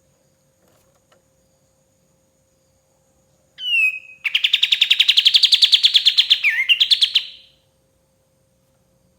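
Kapas tembak songbird calling: a short sliding note about three and a half seconds in, then a fast rattling trill of about ten notes a second lasting about three seconds, dipping in pitch near its end. A faint steady hum runs underneath.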